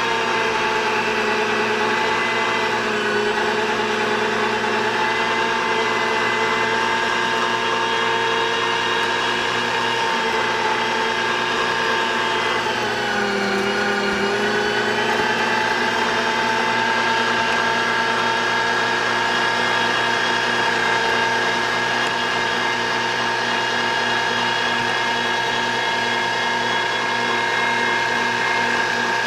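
Electric meat grinder's motor running steadily with a constant whine; its pitch dips briefly about halfway through, then recovers.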